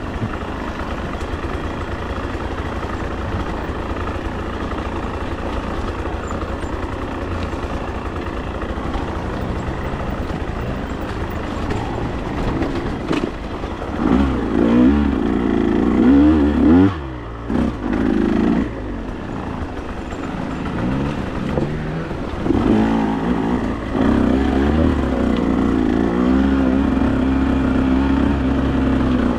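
Vehicle engine idling steadily, then revving up as it pulls away about fourteen seconds in. There is a brief dip near seventeen seconds, like a gear change, and then it runs on under throttle.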